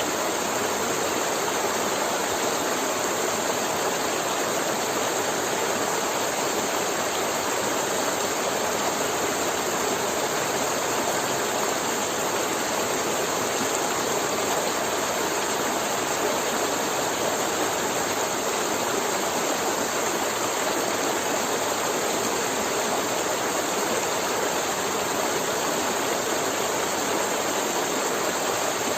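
River water flowing and gurgling over rocks in a steady, unbroken rush.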